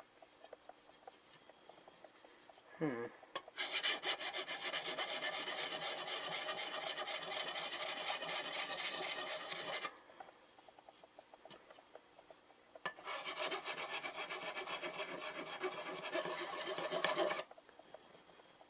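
Hand file rasping on the silencer's end cap in two long runs of quick strokes with a pause between them, taking down high spots that make the cap bind. A brief falling squeak comes just before the first run.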